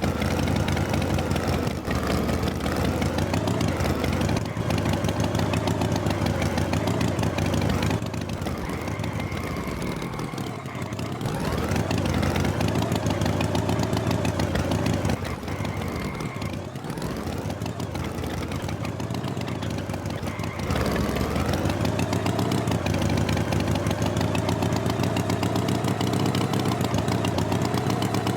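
Tractor engine running steadily, its pitch dipping low and rising back twice, about ten and sixteen seconds in.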